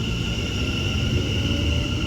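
Electric train running, a low rumble under a steady high-pitched whine.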